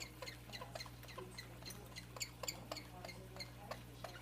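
A small pet giving a rapid, irregular string of short, high squeaks or chirps, about four a second, some falling in pitch.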